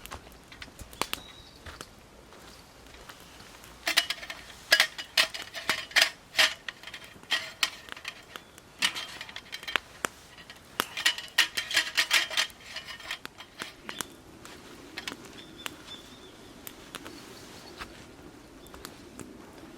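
Metal cookware and utensils clinking and knocking, with a ringing tone after many of the knocks: scattered taps at first, then dense runs of clinks from about four seconds in to about thirteen seconds, then only a few taps again.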